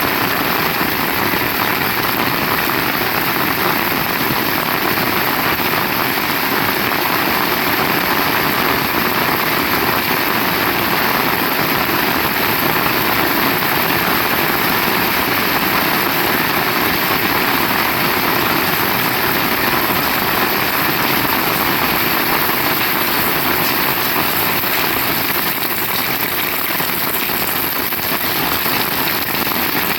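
Heavy rain falling: a loud, steady, dense hiss with no breaks.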